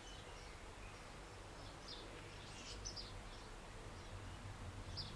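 Faint garden birds chirping: a few short high calls about two to three seconds in and another near the end, over a steady low background hum.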